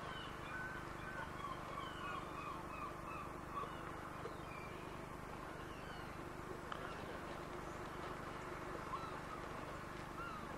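Steady running rumble and hum of a small electric tram on the move, with many short, high chirps sounding over it.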